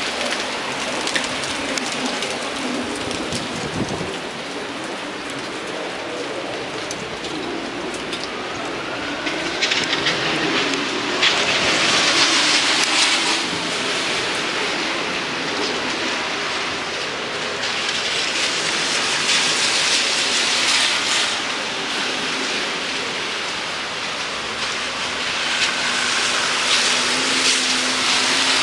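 Steady hiss of heavy, wet falling snow in a snowstorm. The hiss swells louder three times, at about ten, eighteen and twenty-six seconds in, each swell lasting a few seconds.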